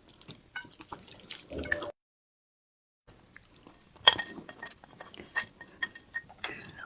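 Close-miked wet eating sounds: mouth smacks and sticky clicks of chewing saucy food, in two stretches with a second of silence between.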